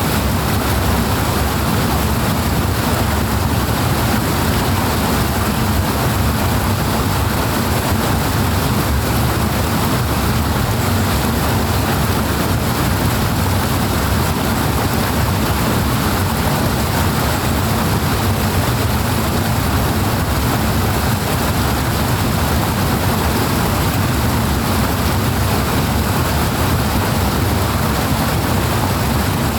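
Powerful rushing water, a steady, loud flow with most of its weight in a deep low rumble.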